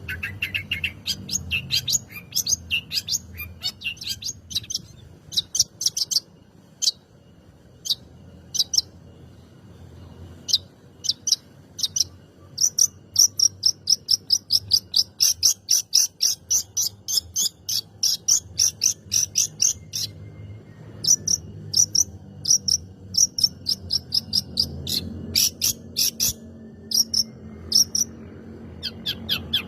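Long-tailed shrike (cendet) chattering: rapid runs of sharp, high chirps, about four a second in a long run through the middle, broken by short pauses.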